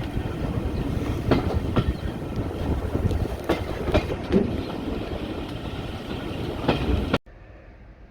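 Railway carriage running along the track, a steady low rumble with the clickety-clack of wheels over rail joints. It cuts off suddenly about seven seconds in, leaving a quiet background.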